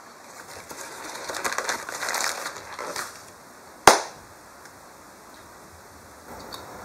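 Crunching and chewing on a fried chicken sandwich, a run of crackly bites for a few seconds, then a single sharp click just under four seconds in.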